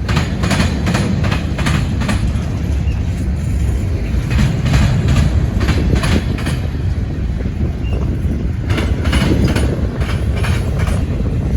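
Freight train cars rolling past close by: a steady low rumble of steel wheels on rail, with repeated clicks as the wheels cross rail joints.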